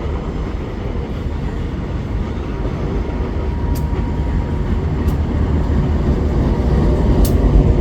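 Loaded bauxite ore freight train rolling past: a steady low rumble from its wagons that grows louder toward the end, with a few brief high-pitched ticks from the wheels.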